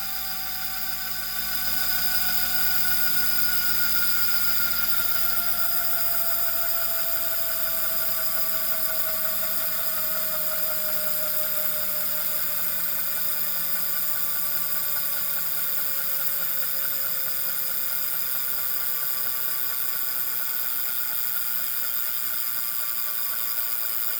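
Wahoo KICKR Core smart bike trainer spinning, its flywheel whine slowly falling in pitch, with a periodic rubbing sound that comes round with each rotation, which the owner takes for an abnormal noise.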